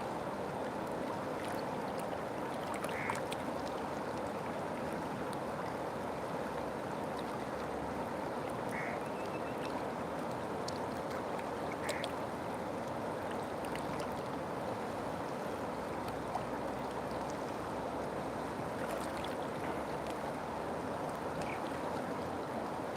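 River water flowing steadily, an even rushing sound. A few brief high calls stand out over it, about four times.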